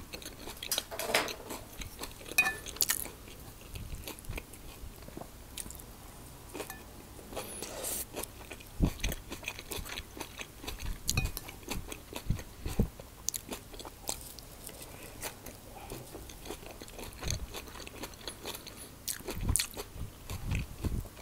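A person chewing a mouthful of food close to the microphone: a run of irregular small wet clicks and crunches, with a few louder low knocks from the jaw and swallowing.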